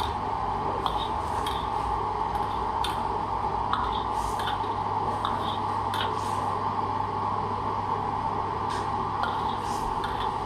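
Steady rushing noise with a constant low hum from kitchen equipment running, with scattered light clicks and clinks of utensils.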